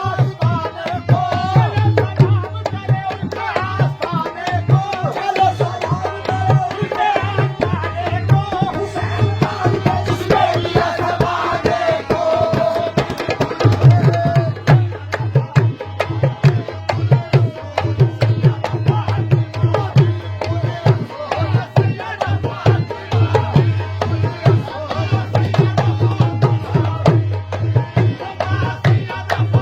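Qawwali music: a dholak hand drum plays a busy, steady rhythm under a held, wavering melody line. The melody is most prominent in the first half.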